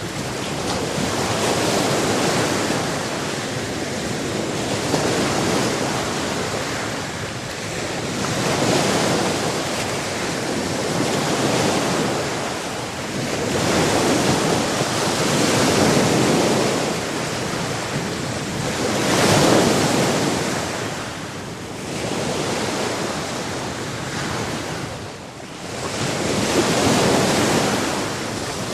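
Sea waves breaking on a shore: a continuous rushing wash that swells and falls every few seconds as each wave comes in.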